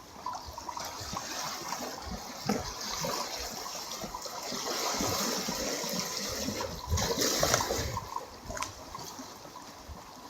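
Sea waves washing against the shore. The rush of water swells to its loudest in the middle and dies back near the end.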